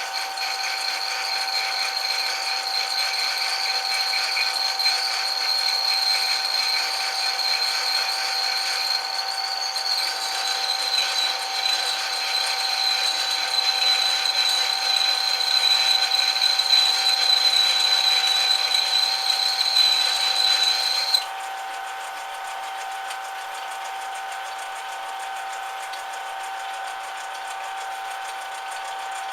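Metal lathe running with a steady motor hum, while a cut in the metal workpiece adds a loud high-pitched whine that wavers slightly and stops suddenly about two-thirds of the way through, leaving only the lathe running.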